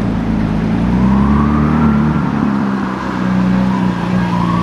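Car engine running steadily at low revs. A faint rising whine, a siren starting up, comes in near the end.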